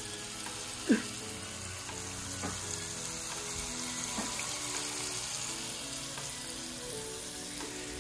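Tempura-battered shrimp deep-frying in hot oil, a steady high sizzle, under background music. A sharp click about a second in, with a few fainter ones later.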